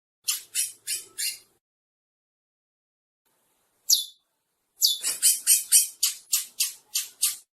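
Chestnut-bellied seed finch (curió) singing: four quick notes, a pause, a single falling note, then a fast run of about ten notes.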